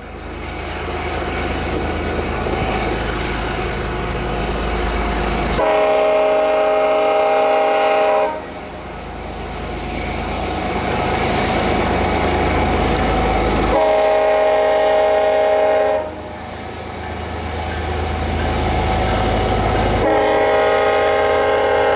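Diesel freight locomotives rumble past while the lead unit sounds its multi-tone air horn: two long blasts, then a third starting near the end.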